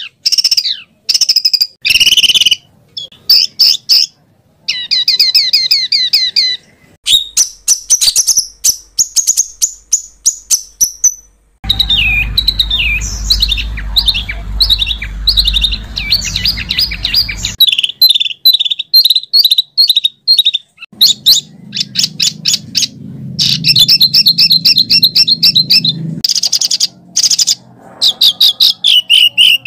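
A spliced run of songbird calls: rapid rolling trills, fast repeated sharp notes and harsh rasping phrases, each ending abruptly. About twelve seconds in, and again near twenty-one seconds, the calls carry a low background hum that cuts off with them.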